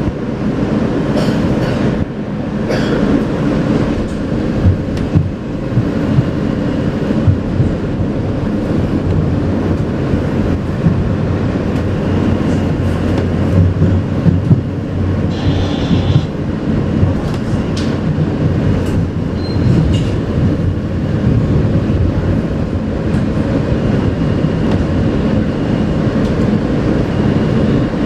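R160A subway car running along the track, heard from inside: a steady rumble of wheels on rail with scattered clicks from the track joints, and a brief high wheel squeal about halfway through.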